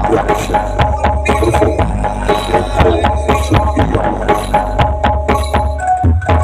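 Music with a heavy bass line and quick, steady percussion hits, played loud through a large sound system under test.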